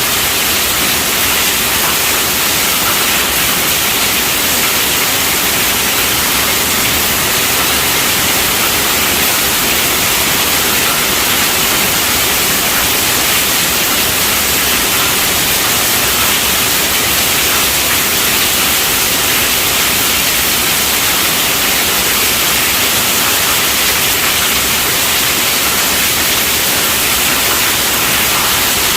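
Steady rainfall: an even hiss, strongest in the high pitches.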